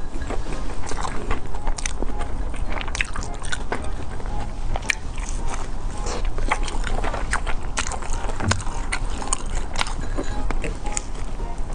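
Close-up eating sounds: repeated biting and chewing with many short crunchy clicks.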